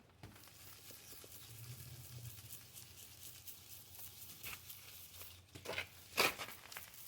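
Hand sanding of a plastic headlight lens with 3000-grit sandpaper: a steady, faint scratchy rubbing, with two sharper, louder scrapes close together near the end.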